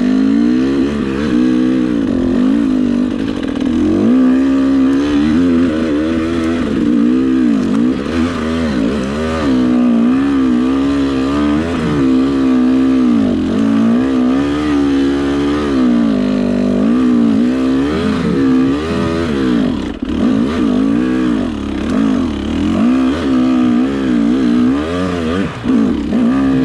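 Dirt bike engine running continuously under load, its pitch rising and falling every second or so as the throttle is worked on a slick, snowy trail. There is a brief dip in the engine note about three quarters of the way through.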